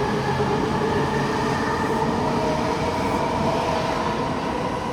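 JR East E259 series electric train running, a steady rumble with a whine of several tones that rises slightly in pitch as the train picks up speed.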